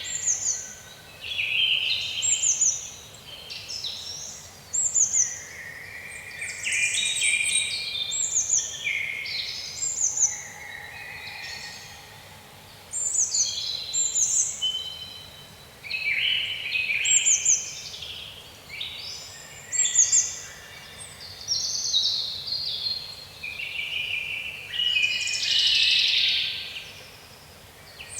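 Songbirds singing in woodland: many short, overlapping chirping and trilling phrases, several with quick falling notes.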